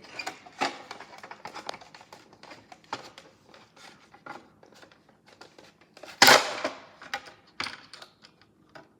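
Plastic parts of a toy washing machine clicking and tapping as it is handled, with scattered light clicks and one louder clack about six seconds in.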